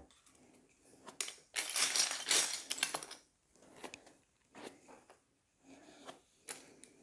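Plastic Lego pieces clicking and clattering while they are handled, with a loud stretch of rustling and rattling about a second and a half in.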